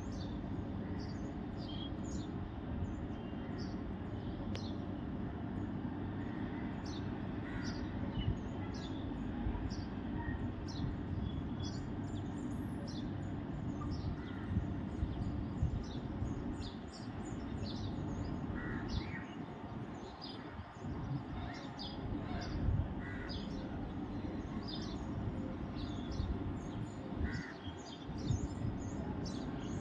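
Many short bird chirps and calls, repeated irregularly, over a steady low rumble.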